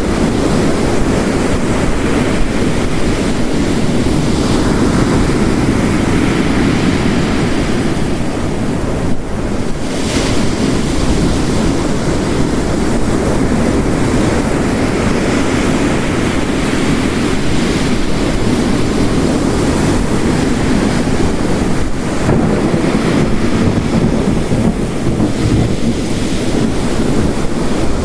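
Layered storm ambience of heavy rain and ocean waves breaking on the coast: a dense, steady wash of noise that swells and eases as the waves come in.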